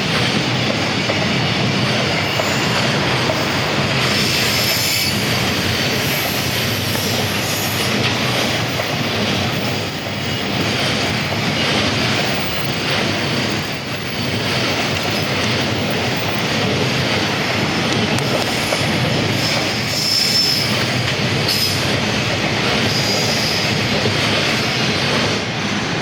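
Freight train hauled by an EF210 electric locomotive passing close by: a steady rumble of wagon wheels on the rails, with brief high wheel squeals several times.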